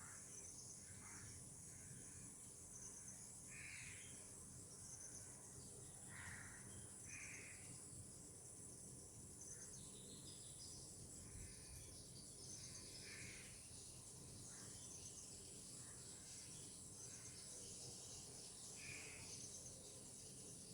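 Faint tropical outdoor ambience: a steady high insect chirring, with short bird calls every second or two.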